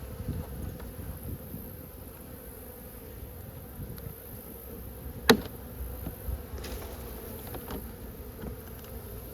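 A honeybee colony buzzing steadily, a dense hum of many bees. A single sharp click about five seconds in, with a few fainter ticks around it.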